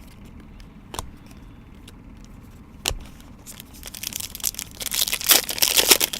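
Trading cards and their packaging being handled: two light taps, then crinkling and rustling that builds up over the last few seconds.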